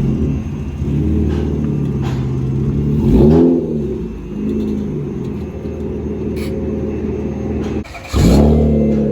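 Acura TL's V6 through a catless straight-pipe exhaust, loud while driving: steady cruising with a quick surge in engine pitch about three seconds in, then a sudden brief drop in level near eight seconds followed by another surge.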